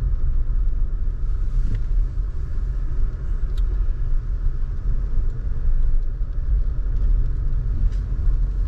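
Steady low rumble of a car driving at low speed, engine and road noise heard from inside the cabin.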